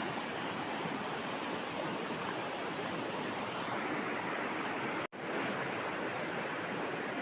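River water rushing steadily, the stream running full after rain. The sound cuts out for an instant about five seconds in.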